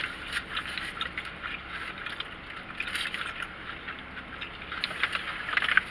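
Close-miked eating sounds: a dense run of small irregular crackles and clicks from chewing and handling food, growing busier near the end.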